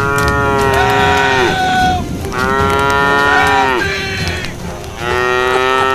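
Cattle mooing: three long calls about a second apart, each sagging in pitch as it ends, with a second cow's call overlapping the first.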